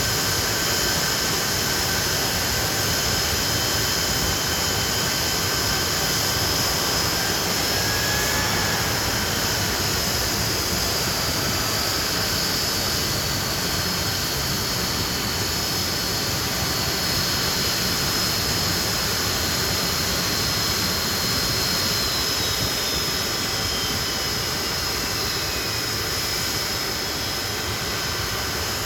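Nimrod's Rolls-Royce Spey turbofan engines running with a steady roar and high-pitched whines. About twenty seconds in, one whine slides slowly down in pitch while the roar carries on.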